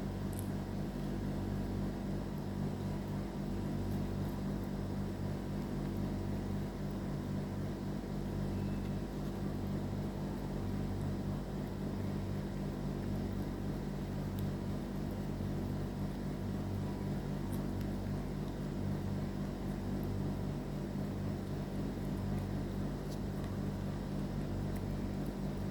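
A steady low machine hum that runs without change.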